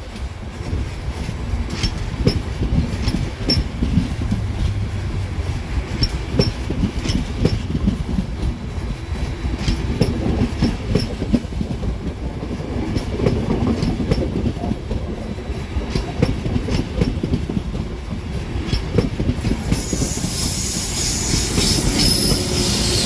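A train running through a station, its steady rumble broken by many sharp clacks of wheels over rail joints and points. Near the end a loud high-pitched hiss comes in.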